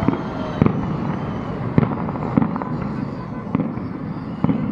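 Fireworks salute going off: a string of sharp bangs, six or so, every half second to a second, over a continuous rumbling haze of further bursts.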